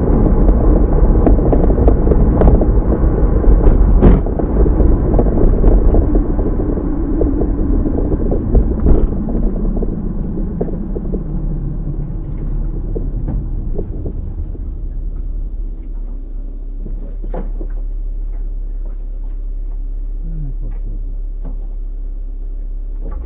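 Car road and engine noise: a loud rumble that fades over about ten seconds as the car slows, then settles into a steadier, quieter hum. A few light knocks and clicks sound over it.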